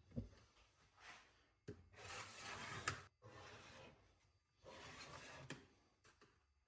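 Faint scraping and rubbing on sheet metal as the cut pattern is flipped and laid on the sheet and traced around: a light knock at the start, then several scraping strokes about a second long with short pauses between.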